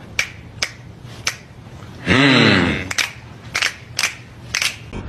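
A cat meows once, about two seconds in, amid a series of sharp, irregularly spaced clicks.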